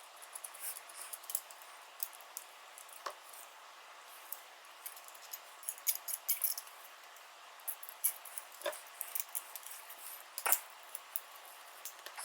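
Quiet, irregular small clicks and clinks of parts and hand tools being handled, with a few sharper taps about three seconds in, near nine seconds and again about a second later.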